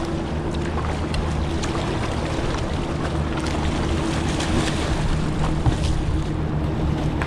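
River water rushing and splashing against a kayak, with short splashes here and there and wind buffeting the microphone.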